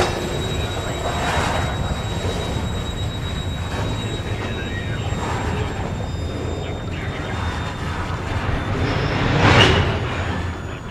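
Freight train's covered hopper cars rolling away over the track, a steady low rumble with two brief louder swells, about a second in and near the end.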